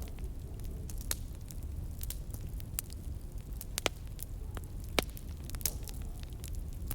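Wood fire burning in a fireplace: a low steady rumble of flames with scattered sharp crackles and pops, the loudest a little under four seconds in and at about five seconds.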